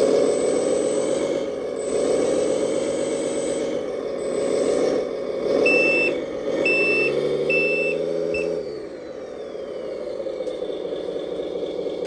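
An RC truck sound module playing a simulated diesel truck engine through its small speaker, the engine pitch rising and falling, with four reversing beeps in the middle. Then the engine note drops away and a thin whine glides slowly down.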